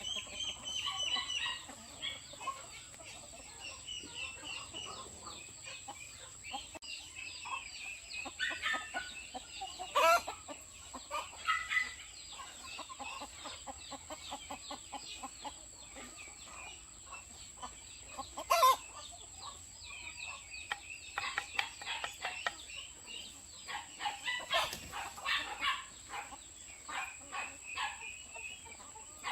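A flock of chickens clucking and calling in quick, repeated bursts, over a steady high-pitched tone. Two sharp knocks stand out, about ten seconds in and again near the middle.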